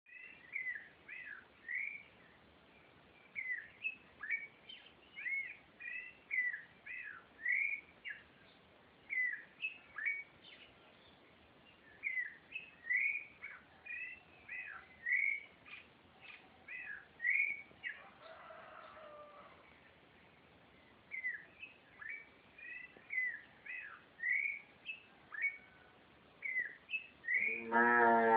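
Birds chirping at dawn in the countryside, short high calls repeating one after another. Near the end a cow starts mooing loudly.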